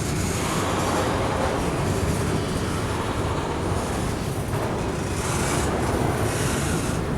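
Norfolk Southern freight train rolling past, its cars making a steady, unbroken noise of wheels on rails.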